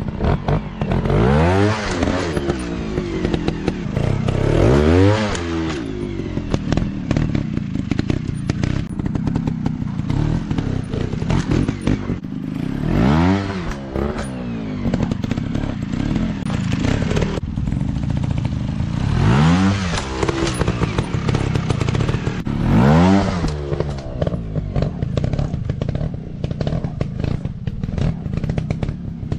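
Off-road dirt bike engine revving in short blips about five times, each rising then falling in pitch, with clattering and knocks between the revs.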